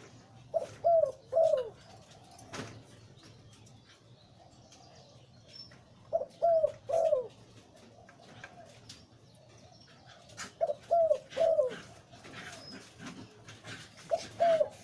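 Male zebra dove cooing, a deep-voiced bird of the Thai 'liw tan' song type. It sings a phrase of three or four short falling coos about every four seconds, four phrases in all, with softer cooing between them.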